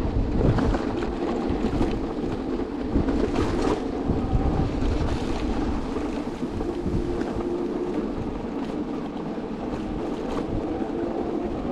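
Steady wind rushing over the microphone, with tyre and motor noise from an electric vehicle riding along a snowy road in a blizzard.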